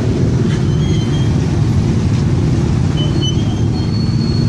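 Steady low rumble of a moving vehicle, its engine and road noise running evenly.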